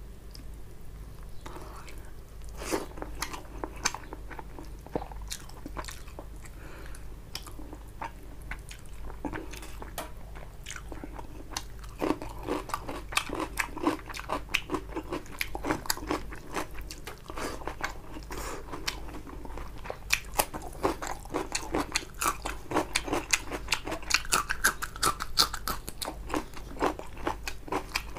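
Close-miked chewing of rice and tilapia fish curry eaten by hand: sparse mouth clicks at first, then from about twelve seconds in a dense, steady run of wet chewing and smacking sounds.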